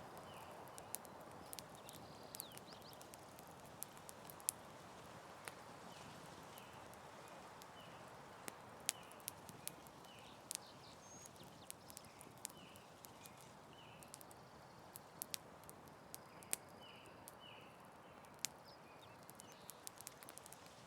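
Campfire crackling faintly: sharp, irregular pops and snaps over a soft, steady hiss, with faint short high chirps repeating in the background.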